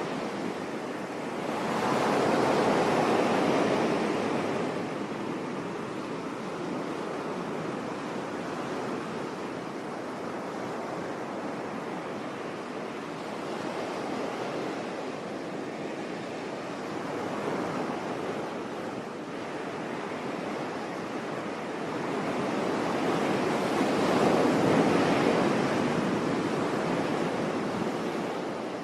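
Sea waves breaking on a beach: a steady wash of surf, with a wave swelling and breaking louder about two seconds in and another near the end.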